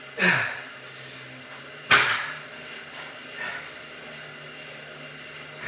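A man's short, forceful exhales, one with each triceps rep, coming about every second and a half; the one about two seconds in is the sharpest and loudest. A steady low hum runs underneath.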